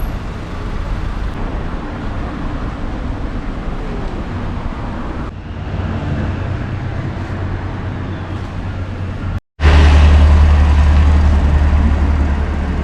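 Steady rumble of a running vehicle, cut into three stretches; the last, after a brief dropout, is louder with a strong low hum.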